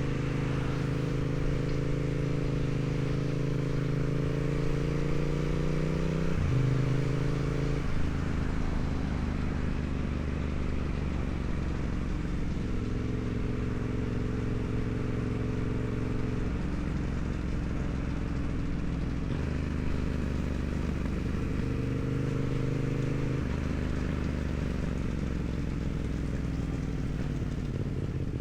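2016 Yamaha MT-07's 689 cc parallel-twin engine on its stock exhaust, running while the bike is ridden. The engine note climbs slowly, drops sharply about six and a half seconds in, then changes pitch in steps several more times.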